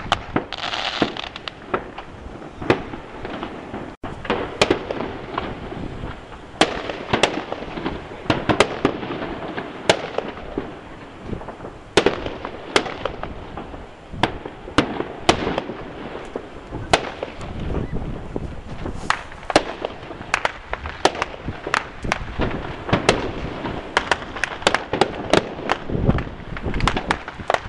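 Fireworks going off in an irregular string of sharp bangs and cracks, one to several a second, over a steady crackling hiss.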